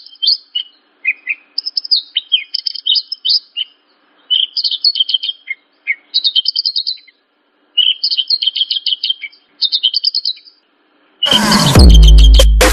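Javan bush lark (branjangan) singing: phrases of rapid, high chirping notes a second or two long, broken by short gaps. Near the end, loud electronic music with a heavy beat cuts in over it.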